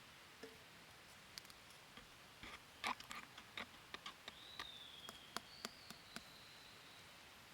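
Faint, scattered light clicks and taps against a quiet background, busiest in the middle, with a thin high whistle-like tone that dips slightly and holds for a couple of seconds in the second half.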